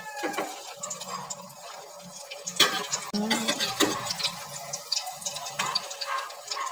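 Ukoy fritters with kangkong frying in hot oil in a wok: a steady sizzle with scattered small pops and crackles. A couple of sharper clicks come partway through, from the slotted metal spatula touching the pan.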